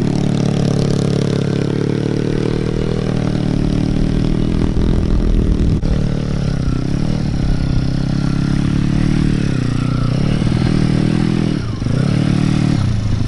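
Small single-cylinder four-stroke pit bike engine running at steady high revs, then the pitch drops and picks back up about three times near the end as the throttle is closed and reopened.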